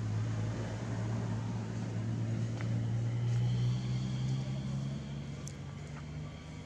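A motor vehicle's engine hum passing by, growing louder to a peak about halfway through and then fading away.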